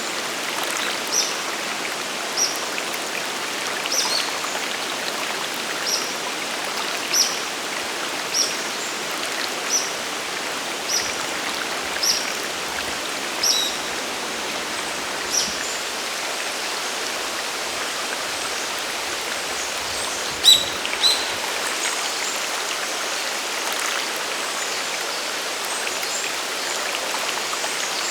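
Waterfall and river water rushing steadily. A bird repeats a short high call about once every second through the first half, with two louder calls about 20 seconds in.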